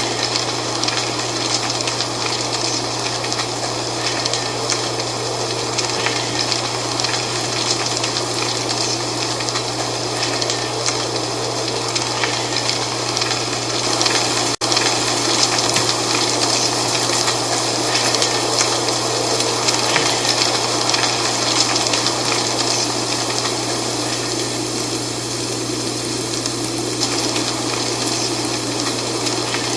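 Dry fall leaves rustling and crackling in a steady wind, over a constant low hum, with a momentary dropout about halfway through.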